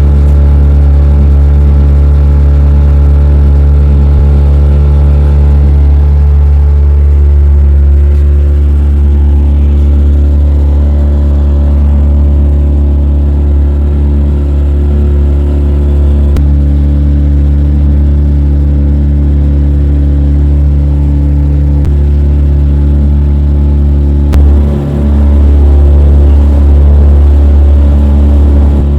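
An engine running steadily at a constant speed, a loud low drone with a stack of even overtones, with a short dip in level about 24 seconds in.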